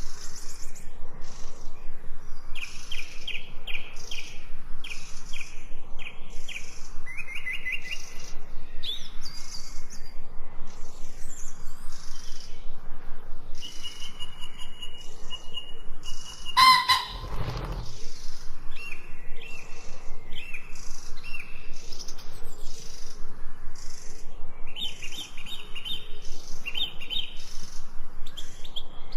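Several songbirds chirping and singing continuously in quick repeated phrases and trills. One sudden loud, sharp sound cuts through about two-thirds of the way in.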